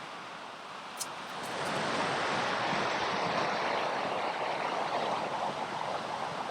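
Ocean surf washing up the beach, swelling about a second and a half in and easing off near the end. There is a small click about a second in.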